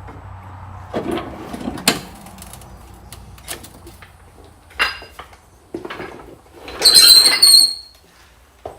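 Metal knocks and clinks of hand tools working on engine-bay bolts, with a louder metallic scrape and ring about seven seconds in.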